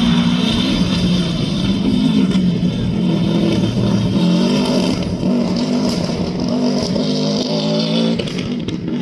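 Rally car engine running and revving, its pitch rising and falling and then climbing in steps through the second half, with a few sharp cracks.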